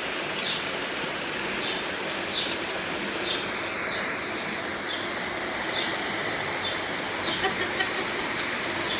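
A bird chirping over and over, short falling chirps about once a second, over a steady outdoor background hiss.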